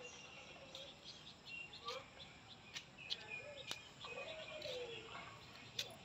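Faint bird chirps and short calls, with a few sharp clicks scattered through.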